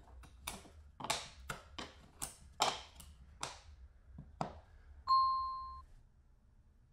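About ten short, sharp knocks or strokes in an uneven rhythm, typical of hand-tool work, then a single clear ringing ding about five seconds in that fades away.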